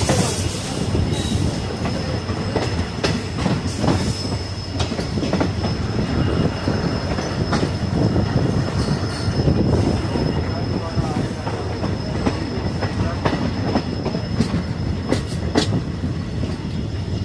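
Passenger train running on the track, heard from on board: a steady rumble with irregular sharp clicks of the wheels over rail joints and a thin, steady high whine.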